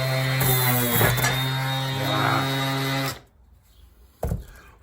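A cordless sander clamped in a vise running at a steady pitch for about three seconds, then switching off. A single sharp knock follows near the end.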